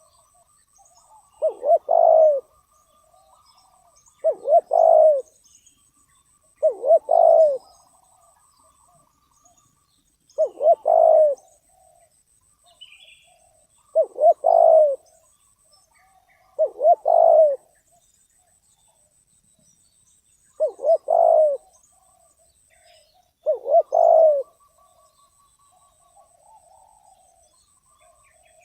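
Spotted dove cooing: a repeated phrase of two or three low coos, given eight times at intervals of about three seconds.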